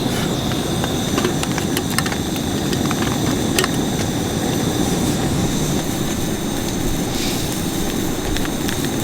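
Strong wind blowing steadily with a low rumble, with scattered light ticks over it.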